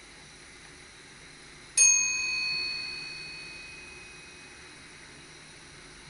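A single ding of the in-cab signalling bell in a Dutch SGM Sprinter train's driver's cab, struck once about two seconds in and ringing out over a couple of seconds. A steady low hiss of the running train lies underneath.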